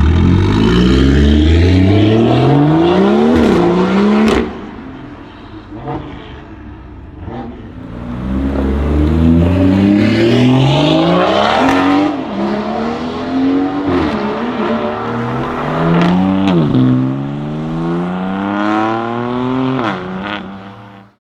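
BMW 440i Gran Coupe's turbocharged 3.0-litre inline-six, running stage 2 tuning, a catless downpipe and an M Performance exhaust, accelerating hard through the gears. The pitch climbs, drops at each upshift and climbs again several times. A few sharp cracks come from the exhaust in a quieter stretch after the first pull.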